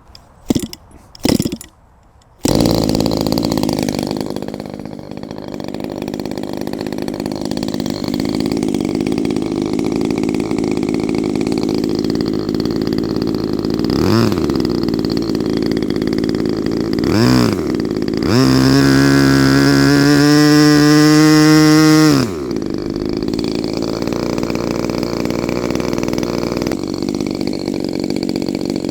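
Small petrol model-airplane engine on a break-in test run: it comes in abruptly about two and a half seconds in and runs steadily. It revs up briefly twice, is held at higher revs for a few seconds, then drops back to a steady idle.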